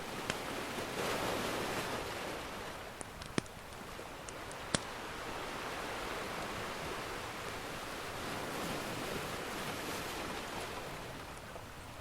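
Ocean surf washing in and out in slow swells, with a few sharp pops and crackles from a wood fire. The two loudest pops come about three and a half and five seconds in.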